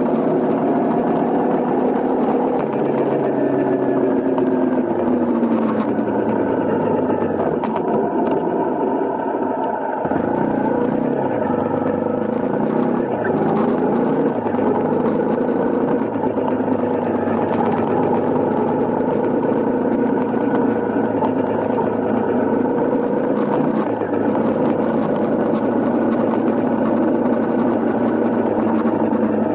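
Honda CRF250L's single-cylinder four-stroke engine running under way, its pitch rising and falling as the throttle and gears change, with a brief drop about ten seconds in.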